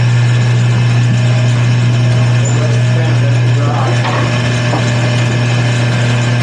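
Wood lathe's electric motor running steadily with a loud, constant low hum, a few faint scraping touches against the spinning work partway through.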